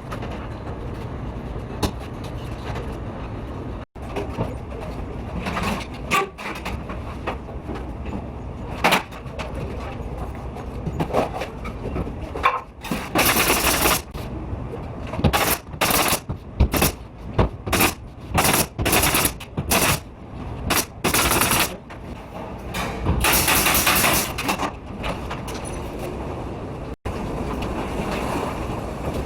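Power tools at work on an interior construction site: a string of short, sharp bursts, most under a second long, coming thick and fast in the second half over a steady background din.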